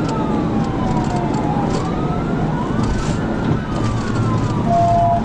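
Police car siren wailing, its pitch sliding slowly down and up, over steady road and engine noise, with a short steady tone near the end.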